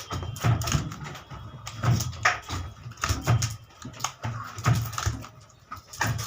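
Irregular clicks and knocks of hands and tools working on a cooler motor, several a second.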